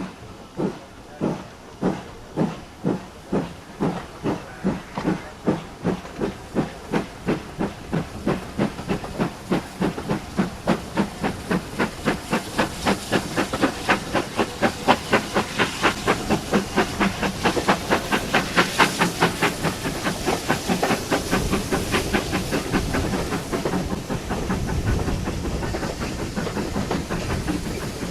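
GWR 2-8-0 tank locomotive No. 4270 pulling away under steam. Its exhaust beats quicken steadily from about one and a half a second to a fast chuff. In the last third they blur into a steady rumble and hiss as the train gathers speed.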